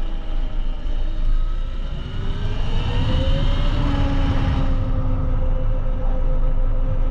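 QS138 70H electric motor on a converted dirt bike whining as the bike accelerates, the whine rising in pitch for about two seconds and then holding steady, over heavy wind rumble on the microphone.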